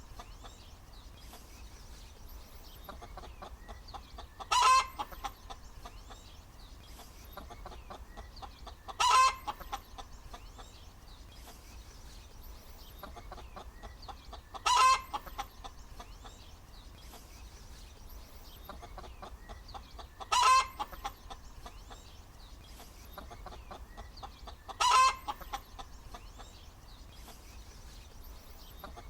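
A hen cackling: runs of quick soft clucks, each building to a loud drawn-out call, five times about five seconds apart.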